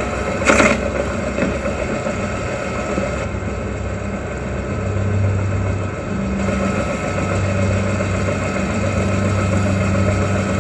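Film soundtrack: a steady engine rumble, with one sharp impact about half a second in and a low steady hum coming in near the middle.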